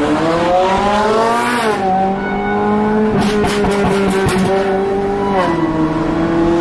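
Ferrari 458's 4.5-litre V8 accelerating: the revs climb for about a second and a half, drop sharply at an upshift, then hold steady before falling again near the end.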